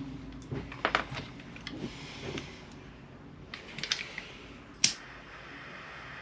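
A handful of sharp clicks and taps of small hand tools against metal hardware, the loudest single click a little before the end, followed by a steady faint hiss.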